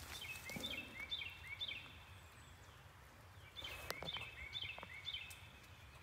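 A bird calling: two runs of quick repeated high notes, each run about a second and a half long, at about three or four notes a second.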